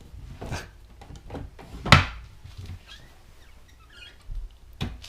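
A few scattered knocks and clunks, the loudest a sharp one about two seconds in, with another shortly before the end.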